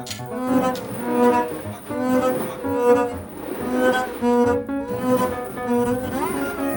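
Jazz trio music led by a double bass played with the bow: a phrase of repeated, held notes with a rising slide near the end.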